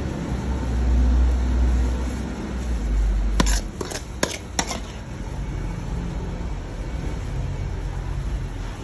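A low rumble for the first three and a half seconds, then four sharp clinks of kitchen utensils against cookware in quick succession, over a steady background noise.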